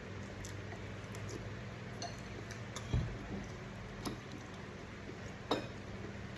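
Cutlery clinking against bowls and plates a handful of times, the loudest clink near the end, with a low thump about three seconds in, over a steady low hum.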